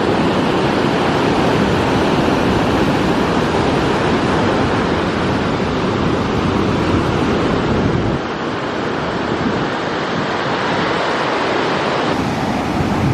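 Ocean surf washing on a beach, with wind rushing over the microphone. The low rumble drops away about eight seconds in.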